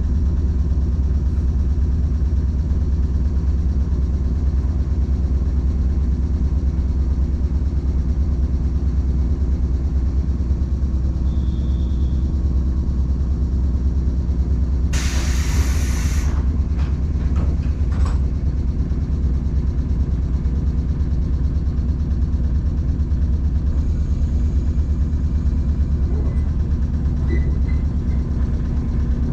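Electric train standing at a station, its machinery giving a steady low hum and rumble. About halfway there is a loud hiss lasting just over a second, and a short click follows a couple of seconds later.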